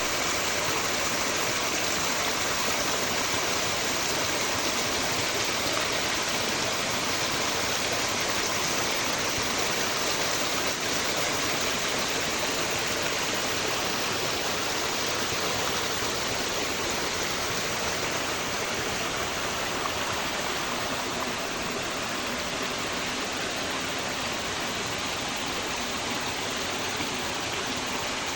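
Forest stream flowing in a steady rush of water.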